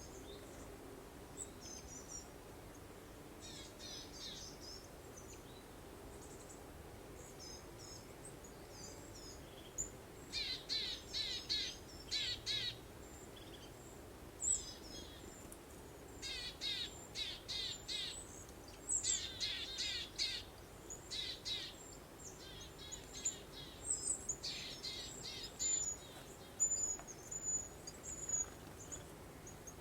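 Small birds singing in bursts of rapid, high chirping trills, thickest from about ten seconds in, over a steady soft breeze.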